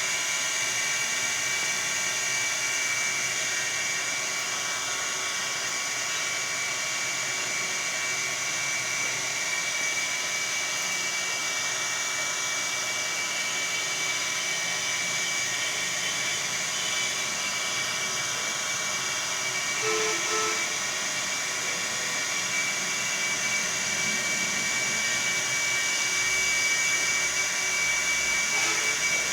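A steady high-pitched whine over an even hiss, unchanging throughout, like a small motor running; a short low two-note sound about twenty seconds in.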